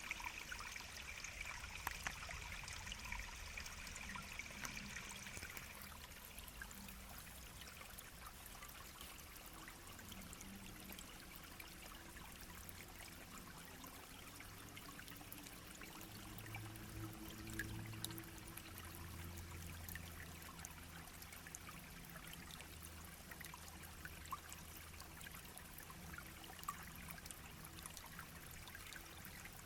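Small brook babbling and trickling steadily, a little louder in the first few seconds.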